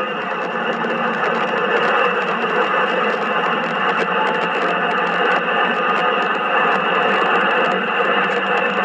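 Mercedes-Benz E350 4Matic's 3.5-litre V6 pulling hard at high speed under full acceleration, heard from inside the cabin together with wind and road noise. It is a steady, thin, tinny-sounding roar with no deep bass.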